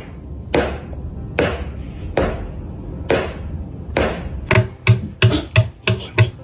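A series of sharp knocks, about one a second, then from about four and a half seconds in a faster, even beat of thumps, about three a second.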